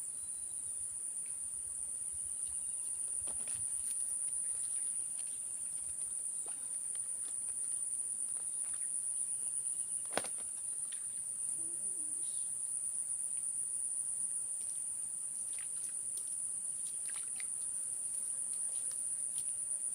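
Insects calling in a steady, unbroken high-pitched chorus, with a few faint clicks and one sharper click about halfway through.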